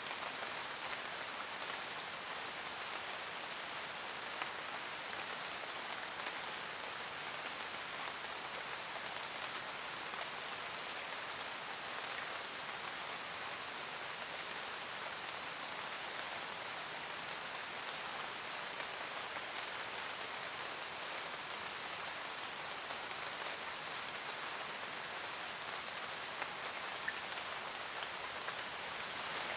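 Steady rain falling in a forest, drops pattering on leaves and ground with scattered individual drop ticks.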